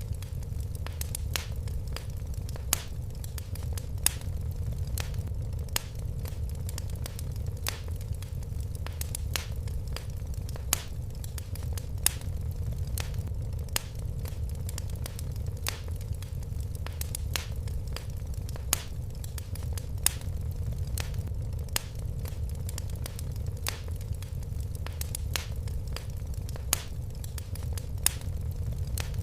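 Fire in a fireplace crackling: a steady low rumble of flames under frequent irregular snaps, with a few louder pops every few seconds.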